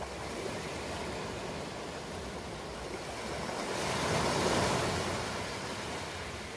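Ocean surf washing onto a shore: a steady hiss of water with one wave building, breaking at its loudest about four seconds in, then fading back.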